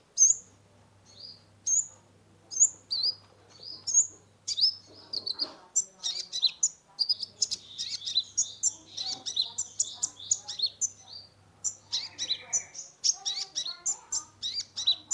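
Kolibri ninja (a sunbird) singing: single sharp, high chirps about every half second at first, then from about four seconds in a fast, dense twittering song of rapid high notes.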